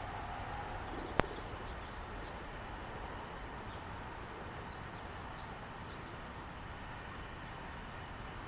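Outdoor background hum with faint, scattered high bird chirps, and one sharp click about a second in.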